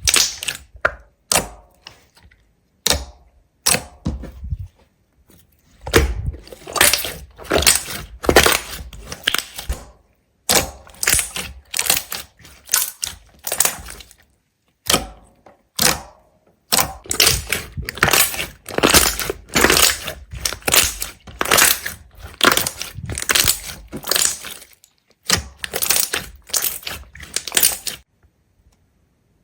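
Repeated crisp crunching and crackling, in quick irregular strokes and short clusters, stopping about a second and a half before the end.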